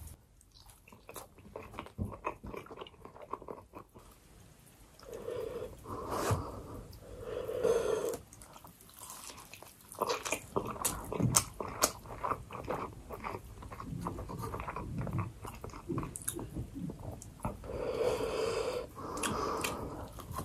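A person chewing sushi rolls: soft, wet mouth clicks and smacks, sparse at first and coming thick and fast from about ten seconds in.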